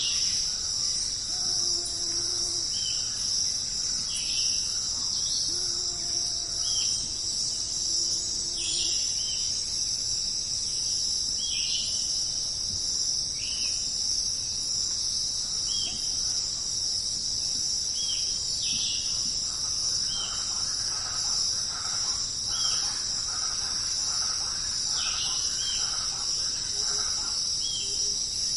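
A chorus of crickets keeps up a steady high trill throughout. Short bird calls recur every second or two over it.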